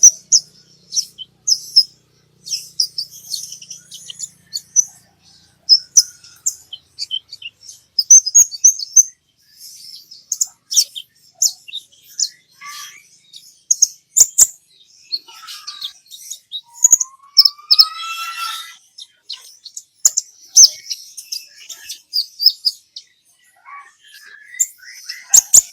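Kolibri ninja (Van Hasselt's sunbird) song: rapid, high-pitched chirps and twitters in quick bursts, with a lower rising whistle a little past halfway. This is a recorded lure song ('pancingan') played to set other sunbirds singing.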